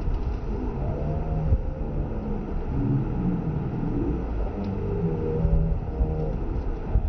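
Low, steady rumble of a waterfall, with brief wavering low-pitched sounds running through it.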